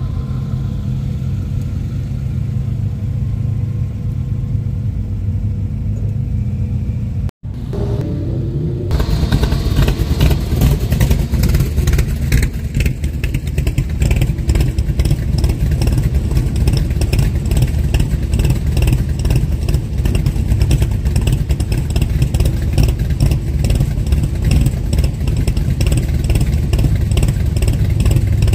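Car engines idling and creeping past. From about nine seconds in, a much louder, choppy V8 rumble takes over: a Shelby Cobra with a lumpy-cammed idle crawling in.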